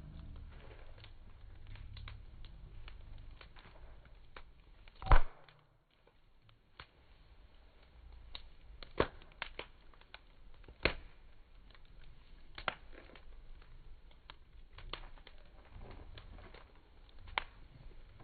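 Campfire crackling: irregular sharp pops and snaps from the burning wood over a low rumbling haze, with one loud pop about five seconds in.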